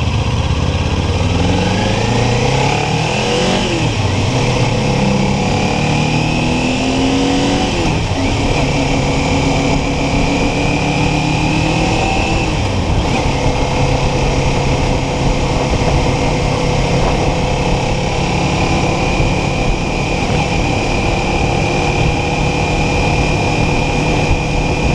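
Kawasaki Ninja 400 parallel-twin motorcycle engine pulling away and rising in pitch, shifting up twice, about four and eight seconds in, then settling into a steady cruise, with wind rushing over the helmet microphone.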